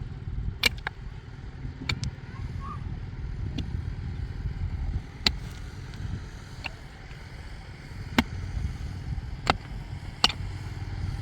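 Tractor engine running low and steady, with sharp knocks here and there, about six of them at irregular gaps.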